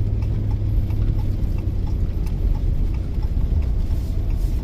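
Tow vehicle's engine and road noise rumbling steadily while towing a trailer, with a light, regular ticking a few times a second over it.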